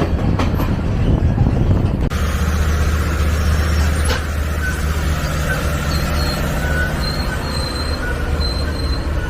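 Passenger train running along the rails: a steady heavy low rumble that changes abruptly about two seconds in, with faint high-pitched squeals coming and going later on.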